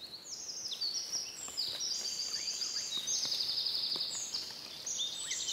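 Several songbirds singing at once, a dense chorus of short, high, rapid trills that overlap one another.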